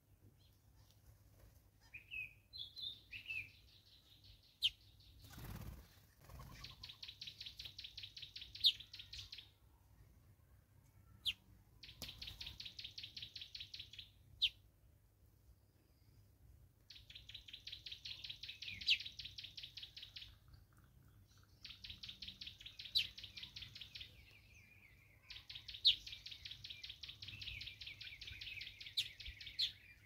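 A bird calling in five runs of rapidly repeated high notes, each two to four seconds long, with short sharp single notes between them.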